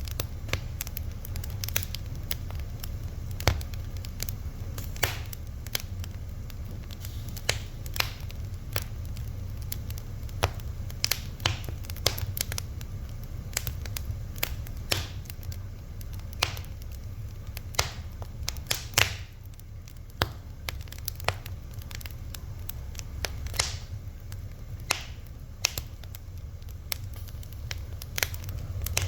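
Fire crackling: irregular sharp pops and snaps, a few every second, over a steady low rumble, with a slightly louder pop about 19 seconds in.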